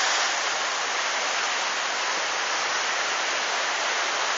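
Steady, even rushing noise of a coastal storm, with no distinct events.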